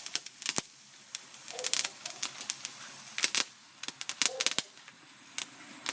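A burning sparkler crackling: irregular sharp pops and snaps, some coming in quick clusters.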